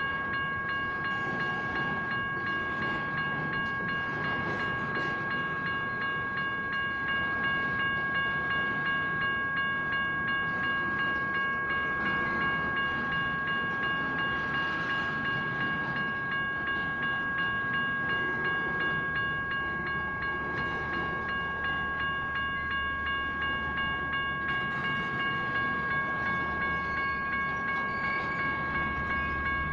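General Signals Type 1 electronic crossing bell ringing steadily in quick repeated dings, warning that the crossing is active. Under it a train rumbles past the crossing.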